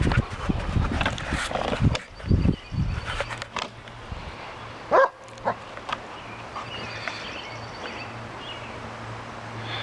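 Puppies play-fighting: rough scuffling and knocking for the first few seconds, then a single short high-pitched cry about five seconds in, with only a few small sounds after it.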